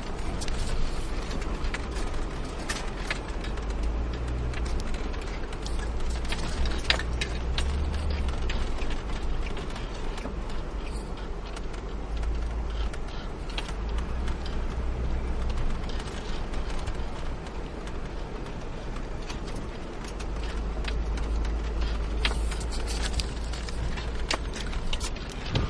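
Car driving on a snow-covered road: a steady low rumble and road noise with scattered light clicks and ticks.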